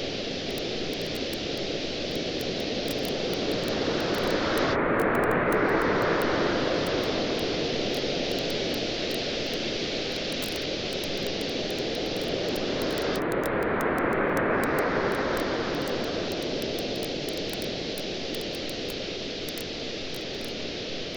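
Surf on a beach under a steady wash of noise, with two slow swells as waves roll in and ease back, and a campfire crackling through it with many small, faint snaps.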